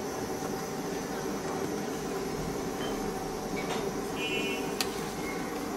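A steady mechanical hum, with a couple of sharp clicks and a brief high tone about four seconds in.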